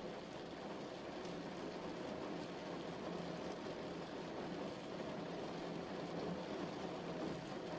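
Steady rain falling, an even, continuous patter without thunder.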